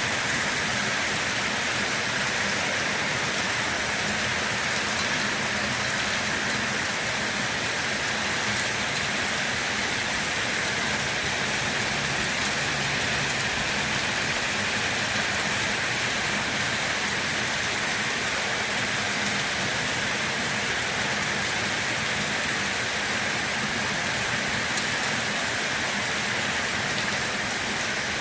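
Steady rain falling on a surface, an even, unbroken hiss of rainfall.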